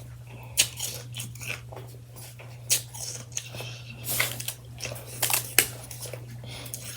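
A person biting and chewing freshly shaved ice: soft, irregular crunches, with sharper bites about half a second in, near three seconds and a few between four and six seconds.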